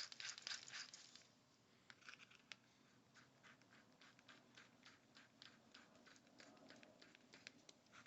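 Faint handling sounds of small hard parts: a quick run of light clicks in the first second, then scattered soft ticks and scratches.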